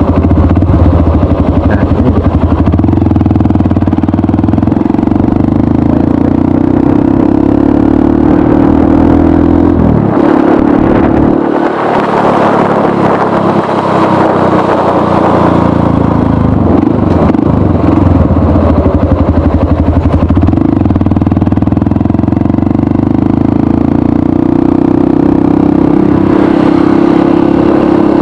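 Honda CRF 150L's single-cylinder four-stroke engine running through a Norifumi RV1 aftermarket exhaust while riding, mostly at a steady pace. About ten seconds in the engine note drops off and changes pitch several times, as with easing off the throttle and shifting, before it settles steady again.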